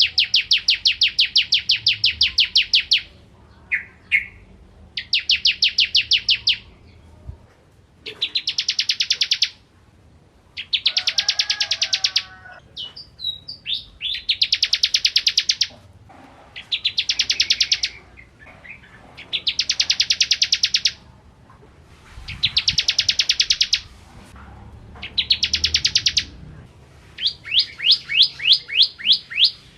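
Bar-winged prinia (ciblek kristal) singing: fast, high trills of one to three seconds each, repeated every few seconds with a few single chip notes in the gaps. Near the end the trill slows into separately spaced notes.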